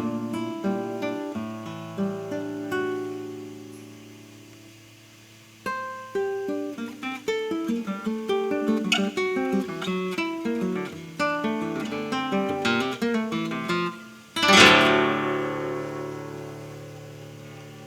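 Solo classical guitar playing a contemporary étude. Plucked melodic notes die away to a soft lull about four seconds in, and a new busy run of picked notes starts around six seconds. About fourteen seconds in a loud full chord is struck and left ringing as it fades.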